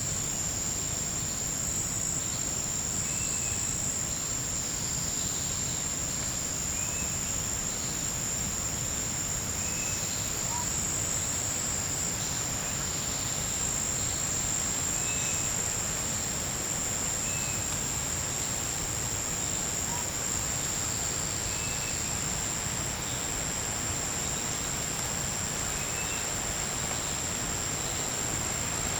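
Forest insects in a continuous high-pitched chorus, one unbroken drone. A short, faint higher call repeats about every two seconds over it.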